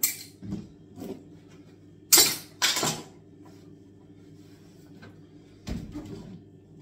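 Knocks and clanks of a kitchen sink being worked loose and lifted out of its unit: a few light knocks, two loud bangs about two seconds in, and another clatter near the end.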